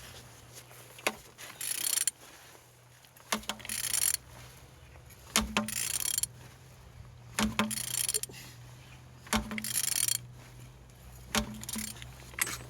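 Mercedes-Benz OM648 straight-six diesel engine being turned over by hand with a ratchet wrench: about six strokes, one every two seconds, each a clunk followed by a short burst of ratchet clicking, over a steady low hum. The engine turns freely, not seized.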